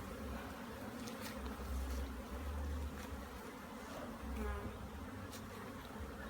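Honey bees buzzing steadily around an open hive box during a smoked hive inspection, with occasional low rumbles underneath.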